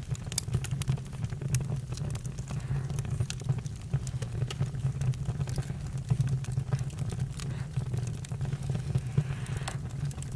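Campfire burning, with frequent sharp, irregular crackles and pops over a steady low rumble.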